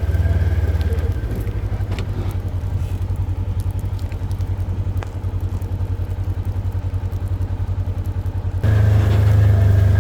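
Small vehicle engine, likely the farm buggy's, running steadily with a fast low pulsing beat. It drops in level about a second in and comes back up near the end, with a few faint clicks over it.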